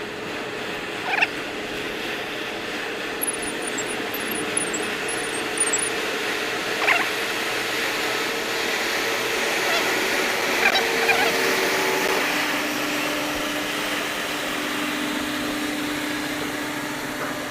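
Boat engine running steadily as the boat approaches, a continuous drone that grows louder towards the middle and whose held tones drop in pitch about twelve seconds in.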